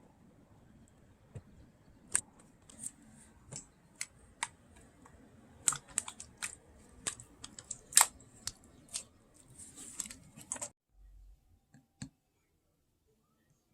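Slime being squished and pressed, making a run of sharp, irregular clicking pops that stop abruptly near the end.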